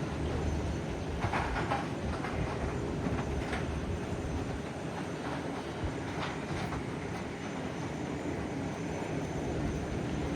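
Airbus A321 jet engines running at taxi power: a steady low rumble with a faint high whine over it.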